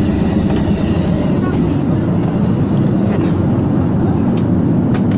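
Steady jet engine and airflow noise inside the cabin of a Boeing 737-900ER airliner: a constant low rumble.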